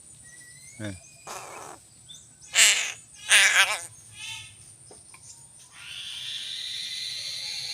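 Crow calling: two loud, harsh caws about two and a half and three and a half seconds in, the second longer and wavering. A steady high hiss sets in near the end.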